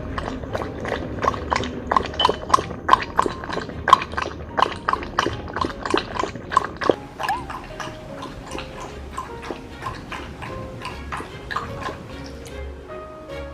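Welsh corgi lapping water from a bowl: a quick, even run of wet tongue clicks, about three a second, that thins out about halfway through, with background music coming in.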